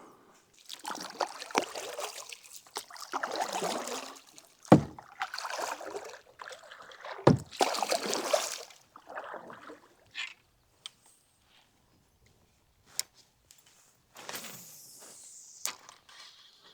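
Kayak paddle strokes swishing through the water, a stroke about every second and a half during the first ten seconds, with two sharp knocks partway through. After a quieter pause there is one more stroke and a click near the end.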